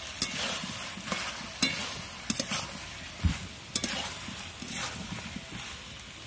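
Chicken and potato curry sizzling in oil in a kadai, being fried down dry without water, while a metal spatula stirs it with about half a dozen sharp scrapes and knocks against the pan.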